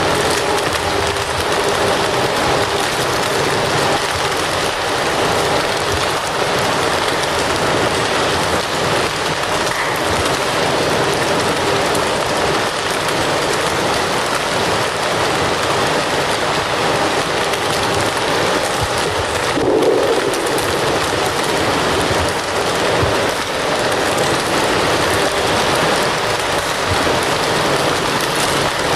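Wood fire burning with a steady, dense crackle, and one slightly louder pop about twenty seconds in.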